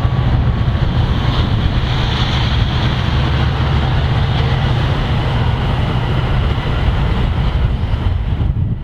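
A passing train rumbling by, with wind noise on the microphone.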